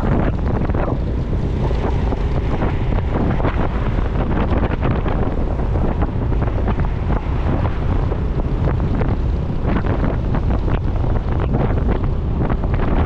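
Wind buffeting the microphone of a moving motorcycle, a steady loud rumble with road and engine noise under it.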